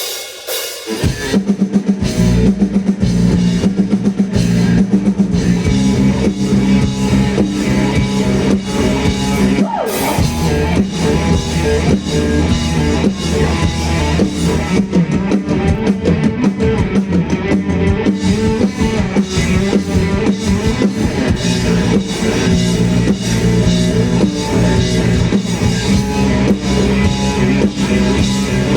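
Live rock band playing an instrumental passage: drum kit keeping a steady beat under electric guitar, bass and keyboard, kicking in about a second in.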